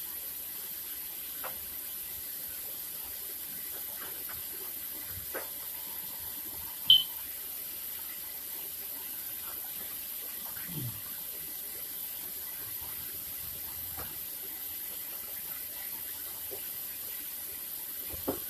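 Kitchen tap running steadily into the sink while dishes are washed, with a few faint knocks and one sharp clink about seven seconds in.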